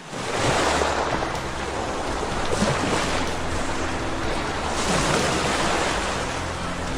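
Loud rushing water, a dense roar that swells and eases about every two seconds, starting abruptly.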